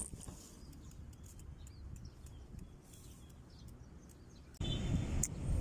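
Faint bird chirps over a quiet outdoor background. Near the end a louder low rumble starts abruptly.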